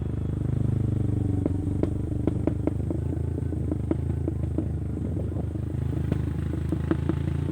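Motorcycle engine running steadily at low speed, with many irregular clattering knocks from the bike jolting over a rough road.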